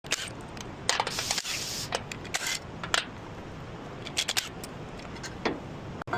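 Metal parts and tools being handled in a workshop: irregular clicks and knocks, with two short scraping rasps in the first few seconds.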